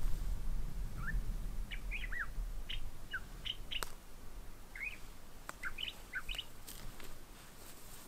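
Small songbirds chirping: quick rising and falling chirps in two bunches, one from about a second in and another around five to six and a half seconds.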